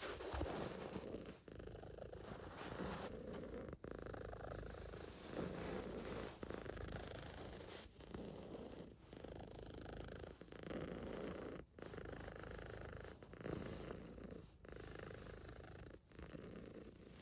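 Calico cat purring steadily, the purr breaking briefly about every second and a half as it breathes.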